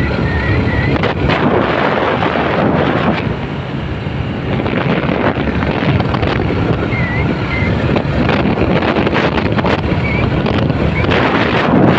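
Wind buffeting the microphone on a moving motorcycle, with engine and road noise running steadily underneath.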